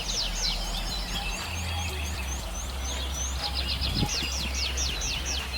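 Songbirds singing in runs of quick high notes that sweep downward. About a second and a half in, they give way to a fast series of short, thin chirps, and the downward runs return near the end. A steady low hum underlies the song.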